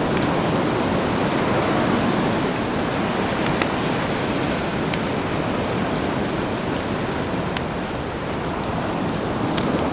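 Steady wash of sea surf, with a few sharp, scattered crackles and pops from a campfire.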